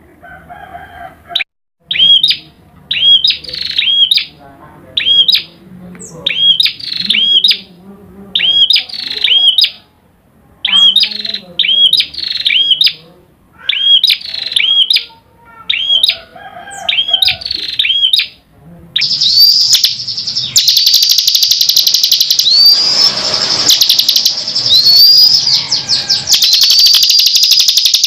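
Recorded songbird calls: a short two-note chirp repeated about once a second, then, about two-thirds of the way in, a sudden switch to a dense, continuous song full of rapid high trills.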